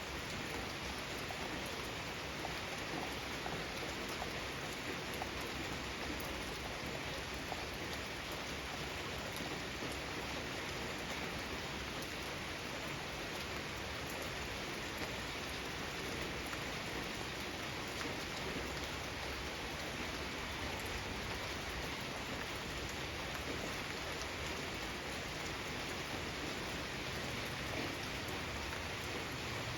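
Steady rain falling on a garden, an even hiss of many drops pattering on surfaces.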